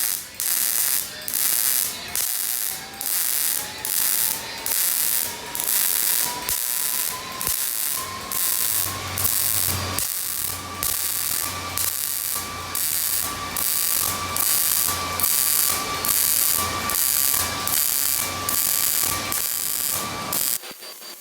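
Welder laying short stitch welds to fill a hole in sheet metal: evenly timed bursts of hissing crackle, about two a second, that stop shortly before the end.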